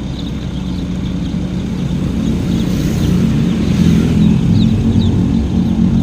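A motor vehicle's engine running steadily and growing louder, with faint high peeping of chicks over it.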